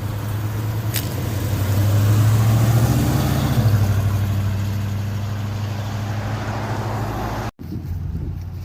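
A car engine running steadily, growing louder for a second or two about two seconds in, then settling; the sound drops out for an instant near the end.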